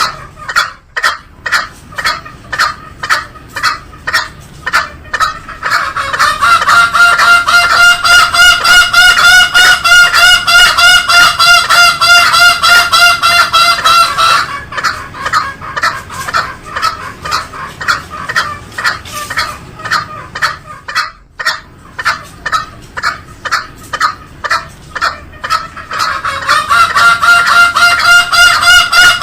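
Green junglefowl calling: a fast, unbroken run of short repeated notes, about four a second. A steadier, higher pitched call joins over it about a fifth of the way in, drops out about halfway, and comes back near the end.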